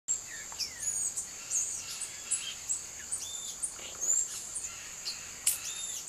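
Wild birds calling: many short, sharp chirps and quick whistled slides, some overlapping. A steady high-pitched whine runs under them.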